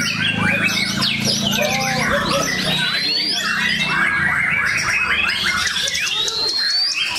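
Many white-rumped shamas (murai batu) singing at once in a contest, a dense chorus of overlapping whistles, trills and chirps. A low hum sits under it for the first three seconds.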